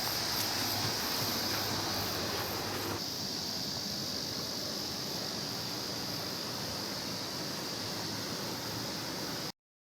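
Mountain stream rushing steadily over rocks, with a steady high-pitched drone of insects over it. The sound drops a little about three seconds in and cuts off abruptly near the end.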